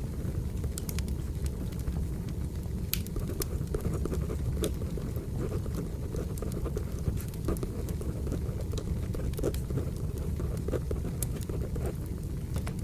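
Wood fire burning: a steady low rumble with scattered crackles and pops from the burning logs.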